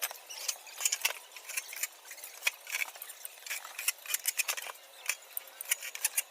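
Irregular small metallic clicks and clinks, several a second, from screws, tools and the sheet-metal casing of the welding machine being handled during reassembly.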